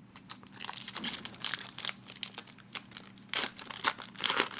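Foil trading-card pack wrapper being torn open and crinkled by hand, a run of irregular crackles with louder crinkles about a second and a half in and again near the end.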